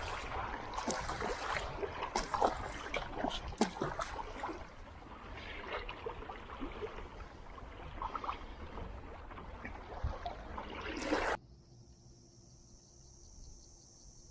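Water splashing and sloshing around a kayak out on open water, with many sharp splashes. About eleven seconds in it cuts off suddenly to a steady, much quieter high chirring of crickets.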